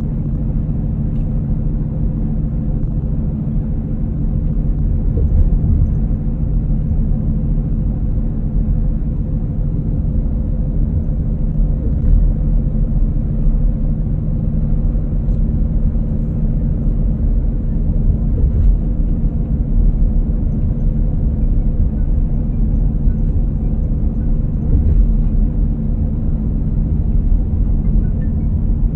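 A running motor giving a steady low rumble with a constant hum.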